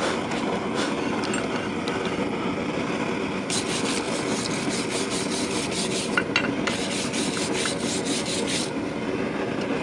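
Two runs of quick scraping strokes on steel, about four a second, over a steady rushing noise.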